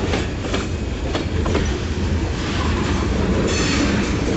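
Kiamichi Railroad train on the rails: a steady low rumble with a few sharp wheel clicks over the rail joints in the first couple of seconds.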